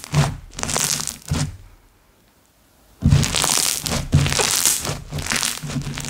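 Slime being squeezed and worked by hand, making crackling, popping noises in repeated bursts, with a pause of about a second in the middle.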